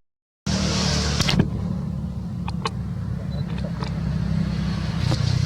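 Steady low engine hum, like a motor vehicle running, with a few brief sharp clicks over it. It starts after a half-second gap of silence.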